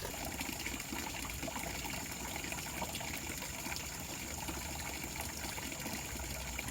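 A nearby river flowing steadily, with a thin high tone held throughout.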